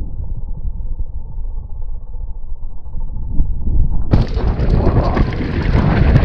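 Downhill mountain bike ridden over rough ground, heard as wind buffeting on the camera mic with the bike's knocks and rattles. It is muffled for about four seconds, then suddenly opens out into loud, full rumbling noise.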